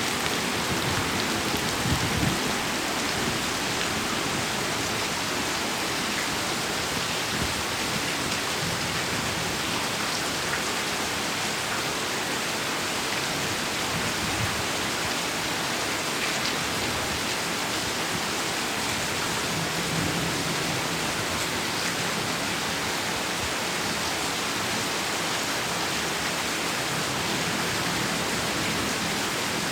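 Heavy rain falling steadily: a dense, even hiss of rain on surfaces, with a brief low swell about two seconds in that may be distant thunder.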